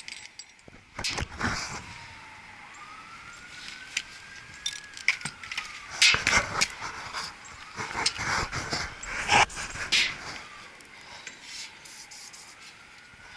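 Sharp metallic clanks and tool clicks from work on the failed blower motor of an old York rooftop package unit. A faint siren slowly rises and falls twice in the background.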